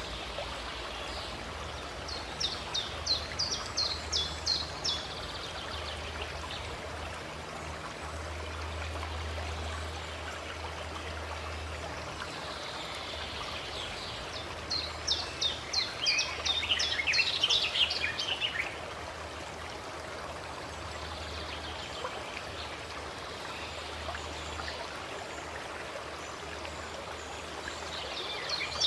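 Water running and trickling steadily, with a songbird singing rapid trills of short, sharp, high notes twice, first a few seconds in and again about halfway, and a third trill beginning near the end.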